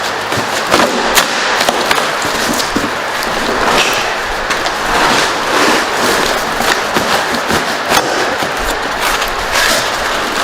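Dense crackling, crunching and scraping of spray-foam packing and a cardboard box being torn and broken apart, with many sharp irregular snaps.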